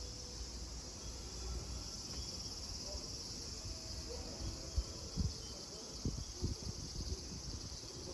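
A chorus of cicadas buzzing steadily in a high, even drone. Several soft low thumps come in the second half.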